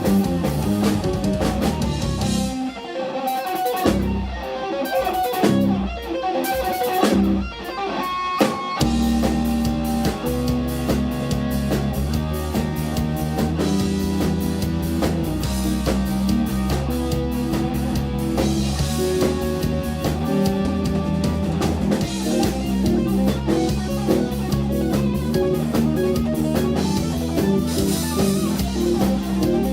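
Live instrumental rock-fusion trio playing: electric guitar, bass guitar and drum kit. The first nine seconds are choppy, with short stops between hits, and then the full band comes in with a steady groove.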